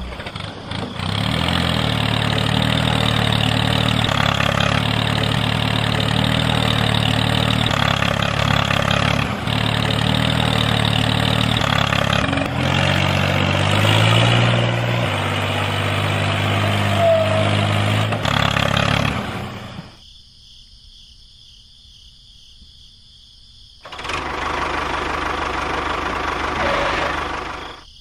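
Tractor engine running with a steady chugging drone that rises in pitch about halfway through. It drops away for a few seconds about two-thirds in, then returns.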